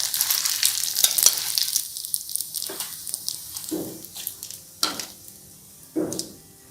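Rice paper crisping in hot oil in a frying pan, sizzling and crackling, the sizzle dying down after about two seconds. A few separate light knocks follow.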